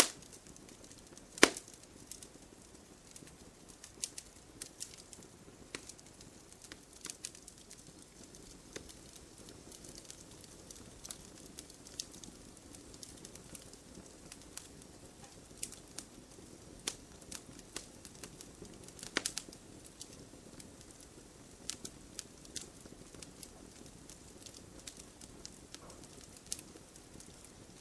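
Wood fire burning with a steady low hiss and frequent sharp crackles and pops, the loudest pop about a second and a half in and another strong burst of crackling near the twenty-second mark.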